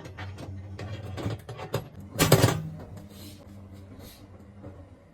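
Metal oven accessories being handled and slid into the oven: a string of clicks and knocks, then one loud clatter a little over two seconds in, followed by softer scraping.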